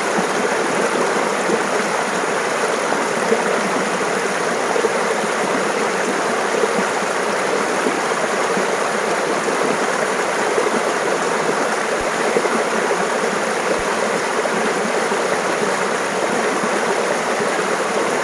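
Stream water running and burbling over rocks, a steady, even rush with small gurgles.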